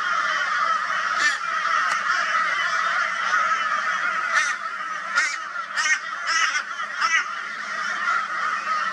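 A flock of crows giving loud, raucous, overlapping caws without pause, with sharper single calls standing out several times in the middle: the crows are mobbing a barn owl.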